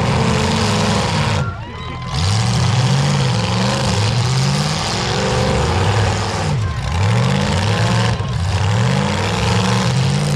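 Several demolition derby car engines revving up and down at once, their pitches rising and falling over one another. The loudness dips briefly about one and a half seconds in.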